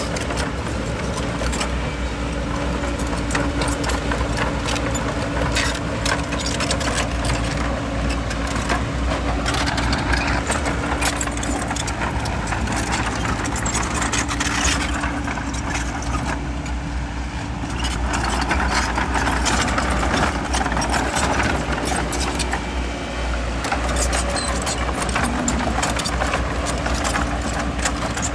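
Bulldozer's diesel engine running steadily at work, with frequent metallic clanks and rattles from its tracks and the stone being pushed.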